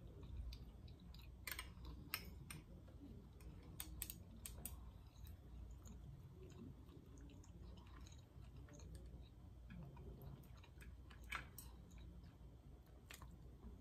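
Faint chewing and eating mouth sounds, with short, sharp clicks scattered throughout, over a low steady hum.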